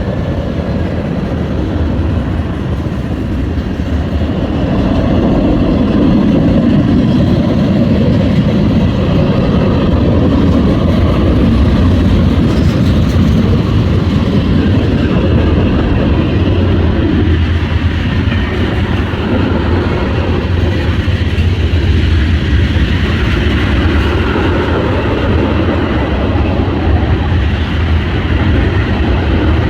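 Norfolk Southern freight train rolling past close by: a loud, steady rumble of wheels on rail with a low drone.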